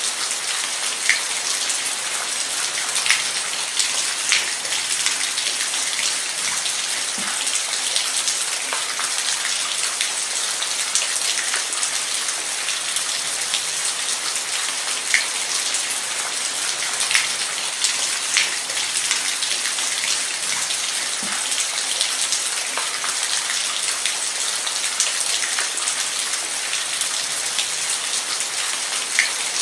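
Steady rain falling on a surface, with individual drops ticking here and there over a constant hiss.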